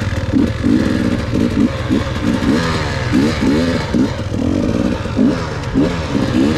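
Dirt bike engine being ridden, revving up and down over and over, its pitch rising and dropping once or twice a second.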